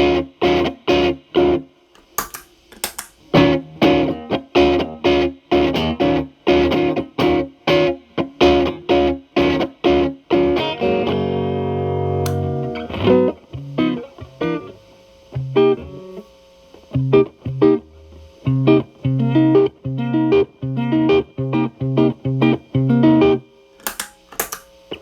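Electric guitar, a Telecaster played through an MI Audio Crunch Box distortion pedal into a Marshall Valvestate amp's clean channel. It plays rhythmic picked chords, lets one chord ring for about two seconds near the middle, then moves into a choppier picked riff.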